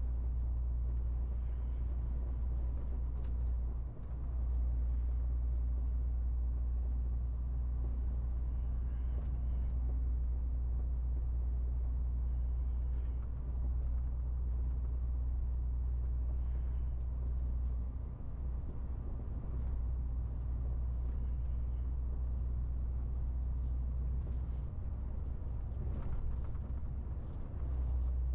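MAN TGX 18.470 truck's six-cylinder diesel engine running at a steady low drone while driving, over road noise. The drone dips briefly a few times.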